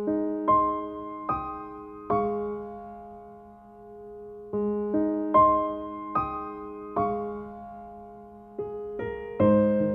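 Slow, gentle piano music: single notes and soft chords struck about once a second and left to ring out, with a longer held chord in the middle.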